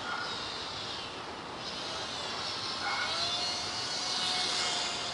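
Electric motor and propeller of a WLToys F949 Cessna-182 RC plane whining steadily in flight, under a rushing noise of wind.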